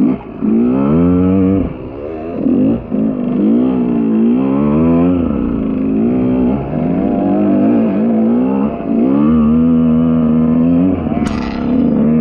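KTM EXC 125 two-stroke enduro motorcycle engine being ridden hard, its pitch rising and falling again and again with the throttle. A sharp click near the end.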